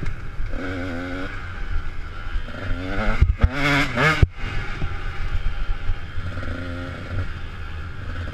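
Motocross bikes running on the track, their engines revving up and dropping back again several times as they go by. The loudest stretch is a harsh burst of revving about three to four seconds in.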